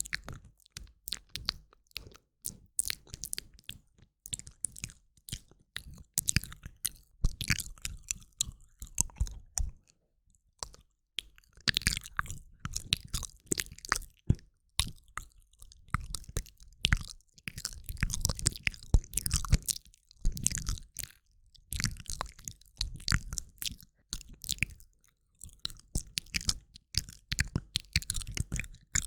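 Close-miked ASMR mouth sounds from a woman: wet mouth clicks and smacks in quick, irregular runs, broken by a few short pauses.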